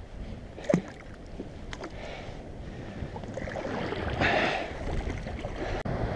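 Water sloshing and surf noise with wind, a sharp knock about three-quarters of a second in, and a louder rush of water about four seconds in.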